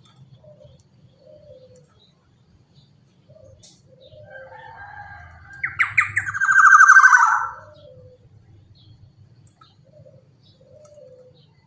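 Black-naped oriole (kepodang) giving one loud, harsh, buzzy call lasting about two seconds, a little over halfway through. Soft, short low notes repeat before and after it.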